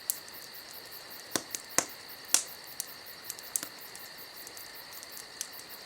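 Wood fire crackling with a few sharp pops, the loudest about two seconds in, over a steady, evenly pulsed high-pitched chirping of crickets.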